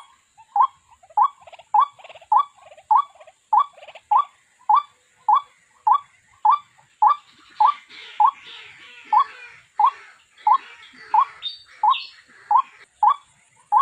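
White-breasted waterhen (chim quốc) calling: one short, sharp note repeated at an even pace, a little under two a second, used as a trapping lure. About halfway through, a fainter, rough chattering joins for a few seconds.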